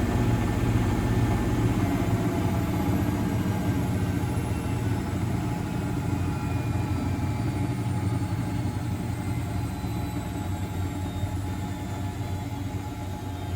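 Miele Novotronic W921 washing machine running: a steady low hum with a faint whine that glides slowly down in pitch as the level eases off, as when the drum slows down.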